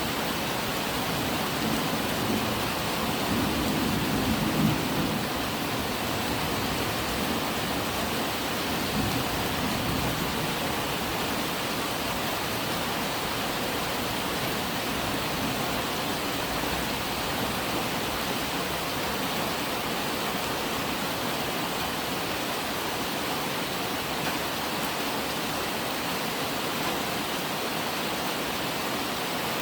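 Steady, heavy rain falling at night, an even hiss with no break. A low rumble swells briefly a few seconds in.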